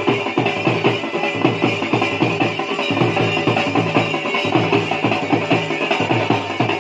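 Dhol drumming in a fast, steady dance rhythm, part of Bhaderwahi folk dance music.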